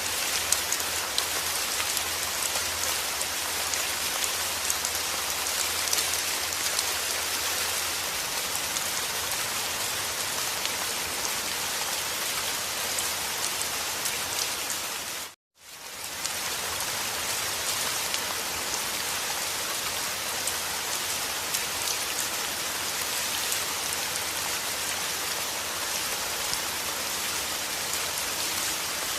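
Heavy rain falling steadily with dense, even patter. About halfway through it fades out to silence for under a second and comes straight back.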